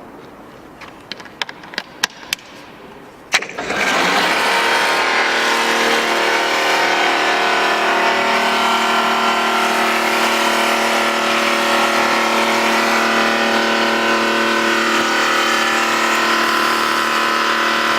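Diesel mobile steam car washing machine starting up: a few clicks, then about three and a half seconds in a sharp click and the machine comes on. It runs loud and steady, a hum of several steady tones with a hiss over it.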